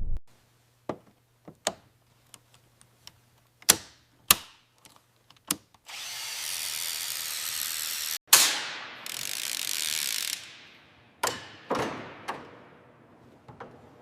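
Scattered sharp mechanical clicks and knocks. About six seconds in, a steady hiss starts; it is cut off by a loud, sharp bang, then a second hiss fades away over about two seconds, and a few more knocks follow.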